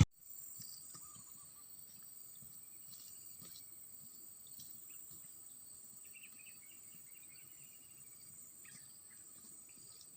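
Faint, steady high-pitched buzzing and trilling of insects such as crickets, with a few short bird chirps about three seconds in and again around six to seven seconds.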